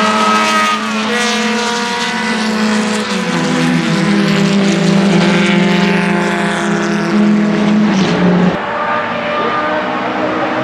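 Ferrari 1512 Formula One car's 1.5-litre flat-12 engine running at racing speed. Its pitch drops twice in the first three seconds, then holds and slowly climbs before the sound changes abruptly about eight and a half seconds in.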